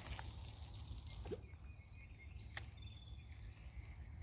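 Quiet outdoor sound with a steady low rumble. A short hiss fades out in the first second or so, a single sharp click comes about two and a half seconds in, and faint high bird chirps follow.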